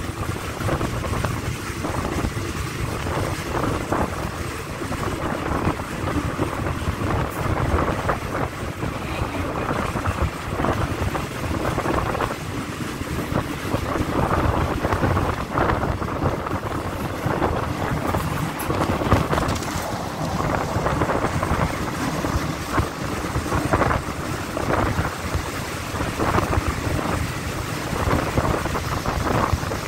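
Passenger train running at speed, heard from an open carriage window: a steady rumble of wheels on rail with scattered knocks, and wind rushing over the microphone.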